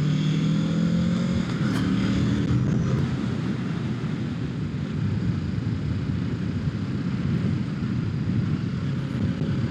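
Kawasaki Ninja 650's parallel-twin engine running under way, with wind rushing over the helmet microphone. The engine note rises slightly and is clearest in the first two or three seconds, then the wind rush covers it.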